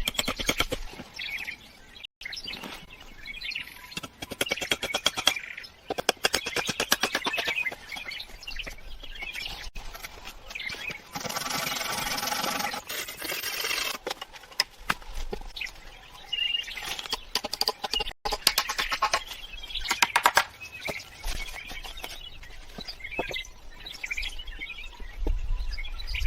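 Birds chirping over a rapid run of clicks and knocks, with a louder, dense call lasting about three seconds near the middle.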